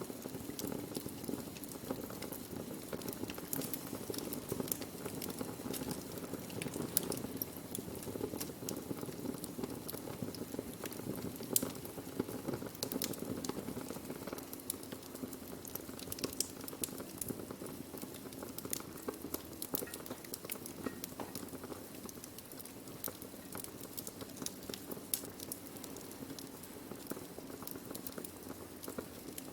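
Burning wood fire: a steady low rush of flames with frequent sharp crackles and pops.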